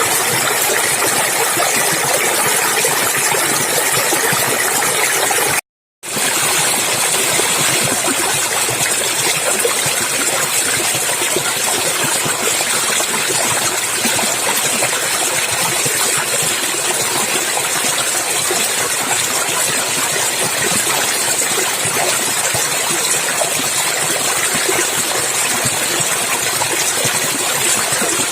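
Stream water flowing steadily in a constant rush, broken by a brief total dropout about six seconds in.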